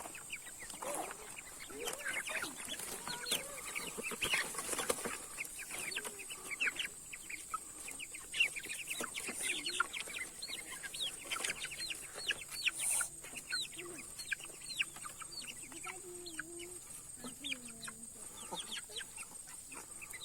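Chickens calling: many short high peeps, several a second, with a few low wavering clucks later on.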